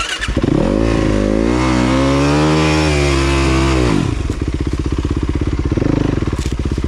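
Dirt bike engine revving hard for about three and a half seconds, its pitch rising and holding high, then dropping to a low, chugging run with evenly spaced firing pulses. This is the bike being worked up a steep, slippery climb.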